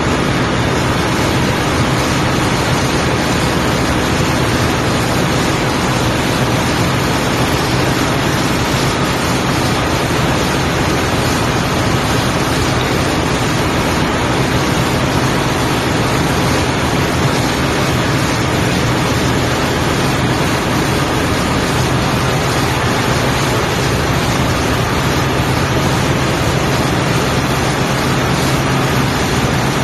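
Ship's engine-room machinery running: a loud, steady wash of noise with a constant low hum underneath.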